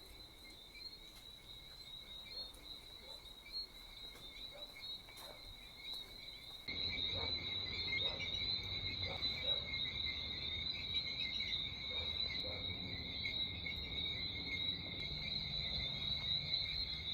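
A steady, high-pitched chorus of calling animals in the vegetation, of the kind the walker takes for cicadas, held on two constant pitches. It grows louder suddenly about seven seconds in.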